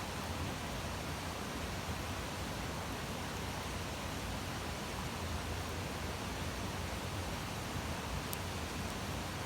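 Wood fire burning with a steady hiss, and a faint sharp crackle about eight seconds in.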